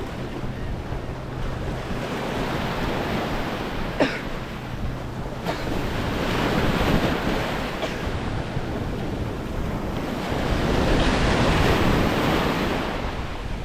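Small waves washing up on a sandy beach, swelling and receding twice, with wind rumbling on the microphone. There is a brief sharp click about four seconds in.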